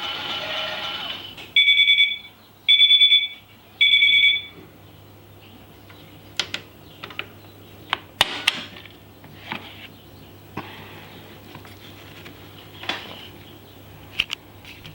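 Toy Klein Miele washing machine beeping three times, about a second apart, after a steady tone stops about a second in: its end-of-programme signal. Scattered light clicks and knocks follow.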